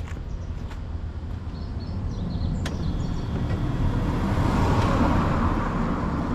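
Yamaha Cygnus X scooter's single-cylinder engine running steadily. A swell of noise builds about two seconds in, peaks near five seconds and eases off, with one sharp click in the middle. No abnormal noise is claimed from the engine.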